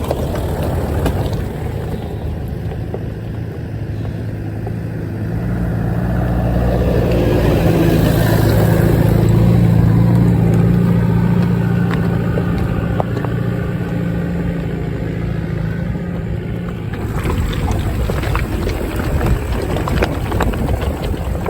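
Off-road 4x4's engine running as it drives along a rough track, its low steady note growing louder in the middle and dropping away suddenly about two-thirds of the way through, followed by a noisier stretch with scattered clicks.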